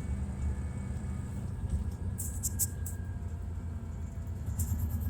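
Detroit Diesel Series 60 straight-six diesel of a 2002 MCI D4000 coach running steadily with a low rumble. A few short, high clicks or rattles come about two seconds in and again near the end.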